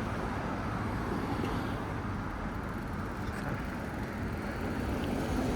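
Steady rumble of street traffic and road noise, heard from a moving bicycle.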